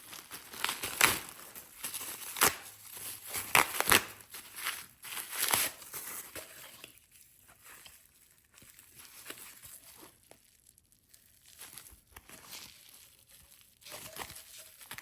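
Packaging wrap crinkling and tearing as an ice scraper is unwrapped by hand, with sharp crackles through the first half, then quieter handling.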